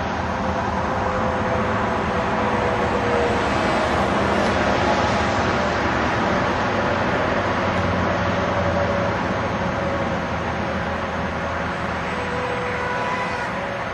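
Electric RC flying wing's brushless motor and propeller whining in flight, the pitch drifting up and down, over a steady rushing noise that swells in the middle.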